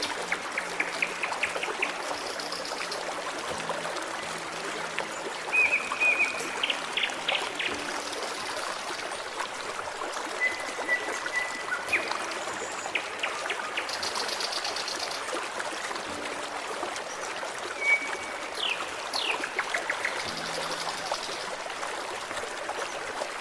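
Forest stream trickling steadily, with songbirds calling over it: quick series of chirps, short whistled notes and high trills.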